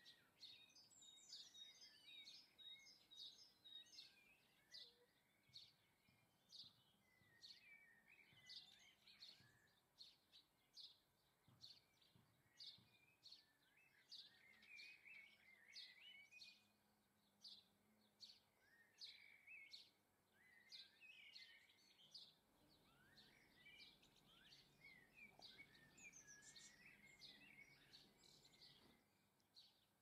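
Faint chirping and twittering of small garden birds: many short, high calls in quick succession, with twittering phrases in between.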